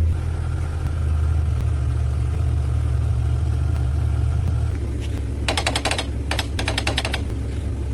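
An engine running steadily with a low rumble. A little past halfway, two short bursts of rapid rattling clatter break in over it.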